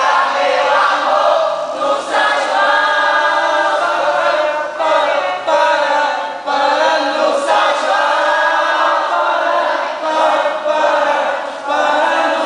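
A group of voices singing together in phrases, with short breaks between them.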